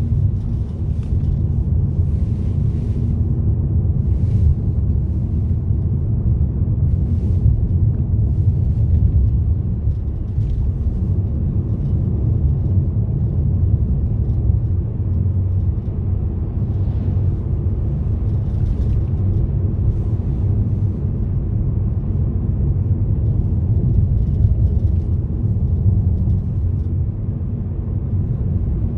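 Car driving along a road: a steady low rumble of engine and tyre noise, with a few faint brief clicks here and there.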